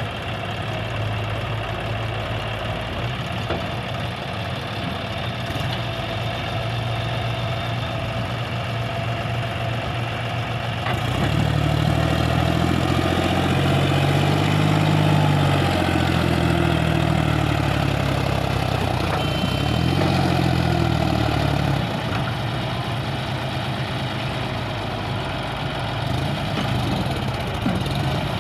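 Heavy diesel engines running. A steady idle-like note gives way about a third of the way in to a louder, deeper engine note that rises and falls for about ten seconds as the machine works, then drops back to the steadier running.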